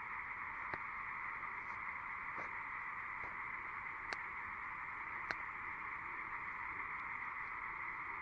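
A steady chorus of frogs calling, with a few sharp pops from a small wood fire.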